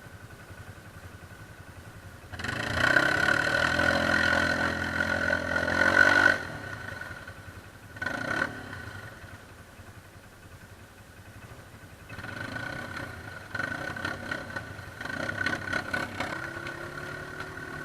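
ATV engine revved hard for about four seconds, then dropping back to a low idle, with a short blip of throttle and later several lighter, rising revs. The quad is hung up and stuck, and the throttle does not get it free.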